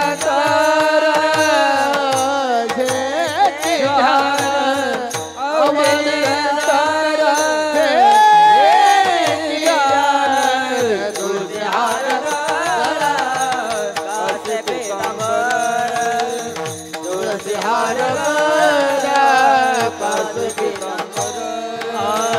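Marathi devotional panchapadi sung by a male lead singer, drawing out long, ornamented melodic phrases without clear words, over steady held accompanying notes and tabla beats.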